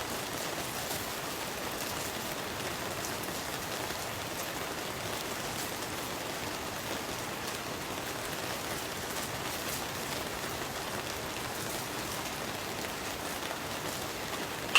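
Steady rain falling on the tent, a constant patter with scattered drop ticks. A single sharp click at the very end.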